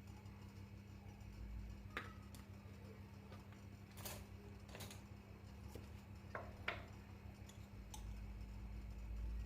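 A few separate light clicks and knocks, as of small objects being handled, over a steady low hum.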